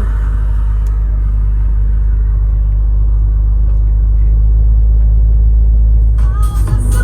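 Steady low drone of a truck driving on the road, heard from inside the cab. Music comes back in about six seconds in.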